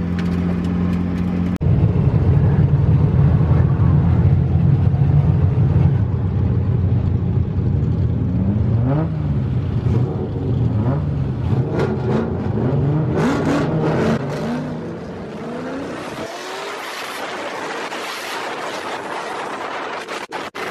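Turbocharged Nissan RB30 inline-six drift car under hard throttle, its revs rising and falling again and again. About sixteen seconds in, the engine gives way to a steady rushing noise.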